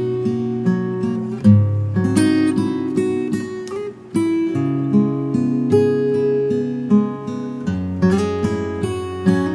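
Relaxing instrumental acoustic guitar music: plucked and strummed nylon-string guitar with a sustained bass line.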